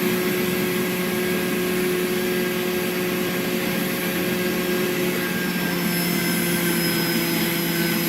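A small motor whirring steadily, a constant hum over an even hiss.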